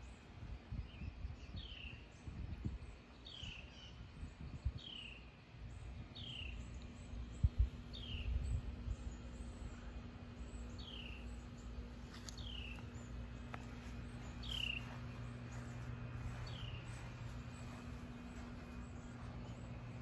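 A songbird repeating a single short down-slurred whistle, about ten times at intervals of a second and a half to two seconds, over a steady low hum with a few low thumps in the first half.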